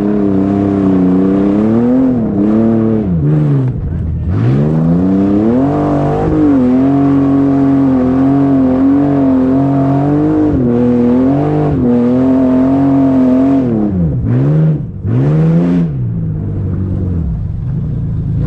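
A vehicle engine running under throttle. Its pitch climbs and falls several times, holds steady for several seconds in the middle, then dips and rises twice near the end.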